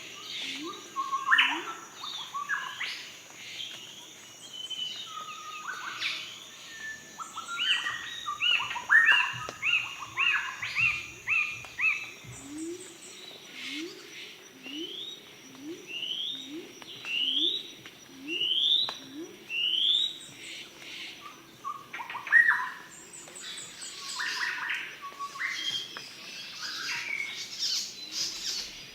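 Several birds singing and calling together, a busy mix of chirps and whistles. Midway a bird repeats a short rising whistled note about once a second. A faint steady high tone runs underneath.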